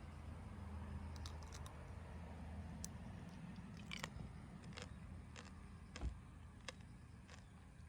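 Crunchy biting and chewing, about a dozen irregular crisp cracks: tanghulu's hard candied sugar shell being bitten and chewed.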